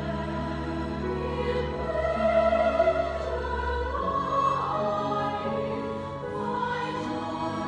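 Mixed choir singing with a chamber orchestra of strings and winds, sustained chords shifting, the low bass dropping out about four seconds in.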